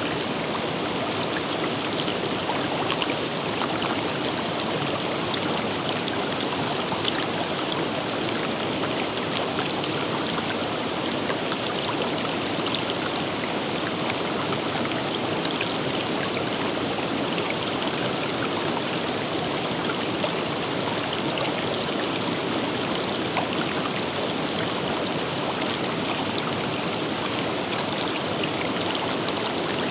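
A river running steadily over rocks, an even rushing wash of flowing water with small splashes and trickles in it.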